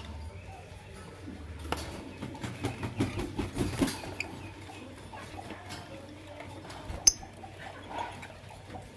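Lovebirds chirping in short, scattered calls, mixed with clicks and taps. The activity is busiest around three to four seconds in, and there is one sharp click about seven seconds in.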